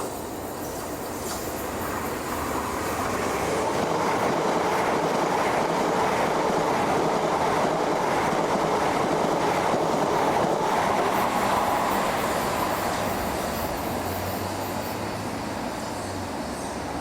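Electric multiple-unit train running past, its rumble swelling for a few seconds, holding, then fading away.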